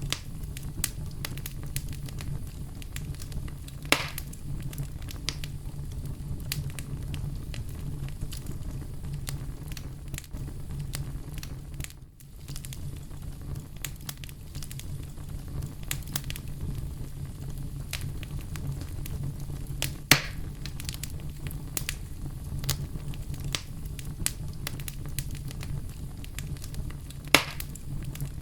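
Campfire burning: a steady low rumble of flames with frequent small crackles of burning wood, and three louder pops, about four seconds in, about twenty seconds in and near the end.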